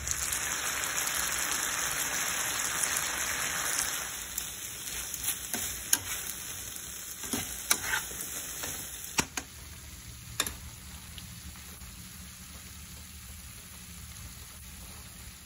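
Green beans sizzling as they sauté in sesame oil in a nonstick skillet, a steady hiss loudest for the first four seconds. After that the sizzle is quieter, broken by a handful of sharp clicks of a utensil against the pan as the beans are stirred.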